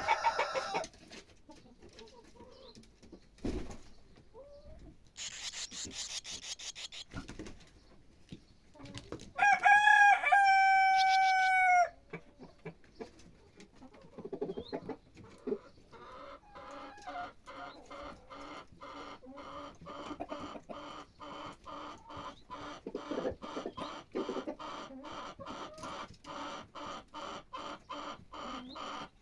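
A rooster crows once, a loud drawn-out call about ten seconds in. Later comes a long run of fast, evenly repeated bird calls.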